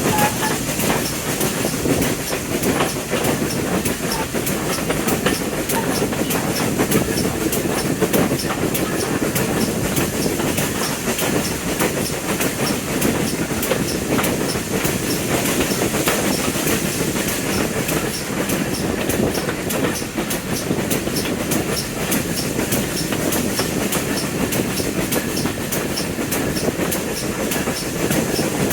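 Train running steadily on the rails: a continuous rumble with many small clicks from the wheels and track.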